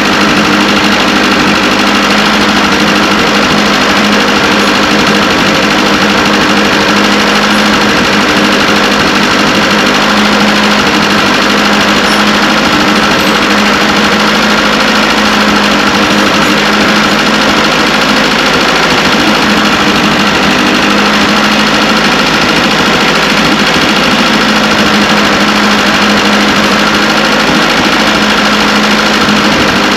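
Engine running steadily at a constant speed, with no change in pitch.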